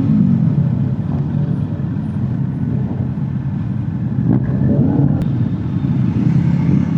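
Motorcycle engine running at low revs, with a couple of brief rises and falls in pitch.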